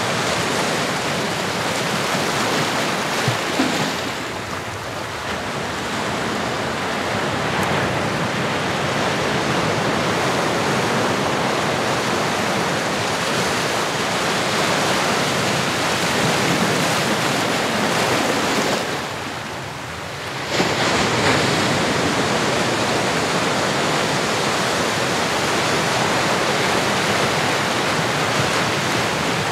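Ocean surf: waves washing steadily, easing off twice, the second lull ending suddenly as a wave breaks about two-thirds of the way through.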